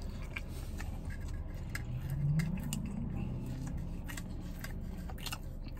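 Close-up crunchy chewing of a crispy fried-chicken sandwich: a run of sharp, crisp clicks from the mouth. About two seconds in there is a short low hum from the eater, rising in pitch.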